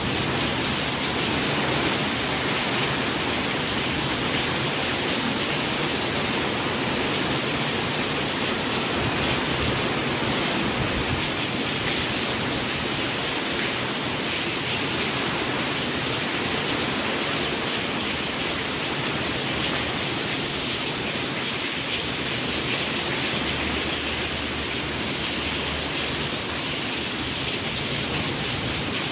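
Steady rain, a dense even hiss that holds at one level without a break.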